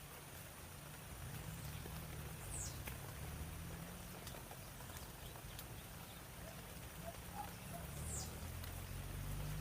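A few faint, thin, high-pitched falling bird chirps, spaced several seconds apart, over a low outdoor rumble, with scattered faint ticks.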